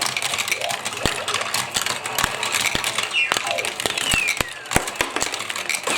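Marbles rolling and clattering through a toy building-block and magnet marble-run course with running water, with many sharp clicks as the marbles strike the plastic pieces over a steady water hiss. A couple of falling whines come about three to four seconds in, as marbles roll down.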